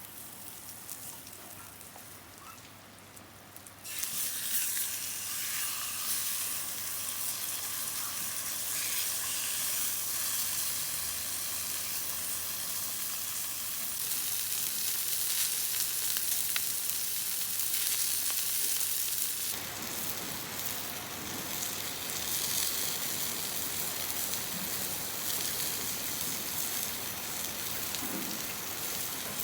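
Food sizzling in a hot pan over a campfire, starting suddenly about four seconds in and then frying steadily.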